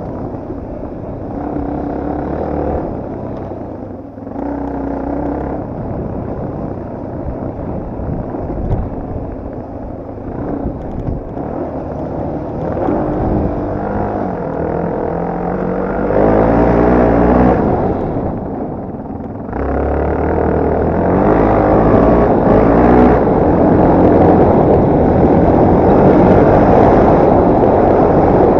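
Yamaha TT250R's single-cylinder four-stroke engine riding off-road, revving up and down through the gears, with the throttle closing briefly about four seconds in and again near two-thirds of the way through, then pulling harder and louder in the last third.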